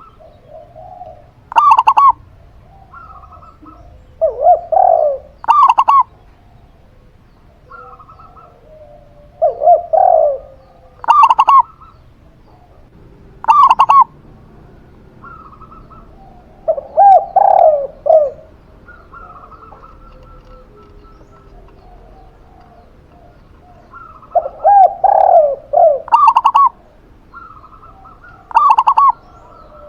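A zebra dove (perkutut) and a spotted dove (tekukur) cooing in turn. Short, sharp, higher-pitched calls come every few seconds, alternating with lower, longer rolling coos.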